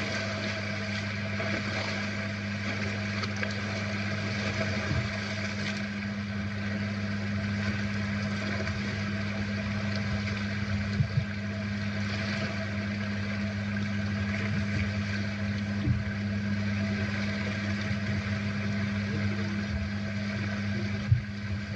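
Steady low engine drone, like a vehicle idling, with a few faint knocks.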